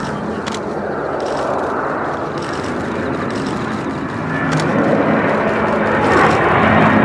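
Boeing KC-767J tanker's twin jet engines running during a low flyby. The jet noise grows steadily louder as the aircraft approaches, with a harsher, higher rush building from about four and a half seconds in.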